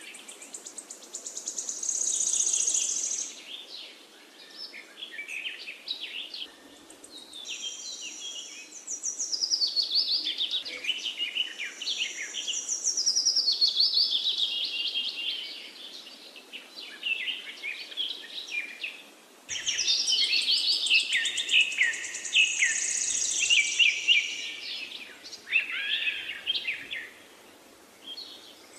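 Several birds chirping and singing, with rapid high trills and twitters broken by short lulls.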